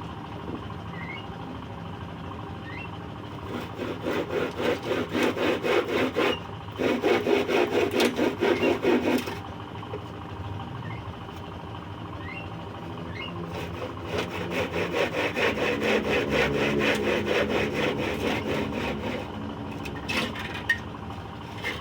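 Hand saw cutting scrap wood in quick, even back-and-forth strokes, in three spells with short pauses between them.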